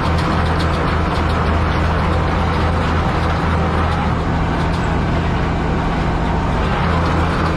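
Same Titan 160 tractor's air-cooled diesel engine running at a steady speed.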